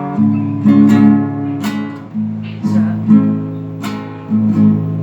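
Acoustic guitar strumming chords, each strum ringing on until the next.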